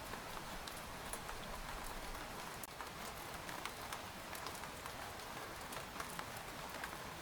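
Steady rain falling on a tent, a constant patter with many separate drops tapping on the fabric. There is a split-second dip in the sound about two and a half seconds in.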